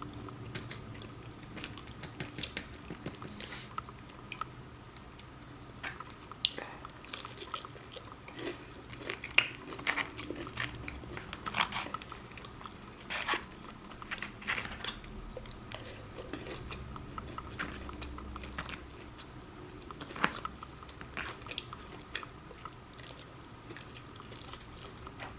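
A person eating close to the microphone: chewing and biting, with irregular crisp crunches and wet mouth clicks, from a plate of breaded chicken katsu, macaroni salad and rice.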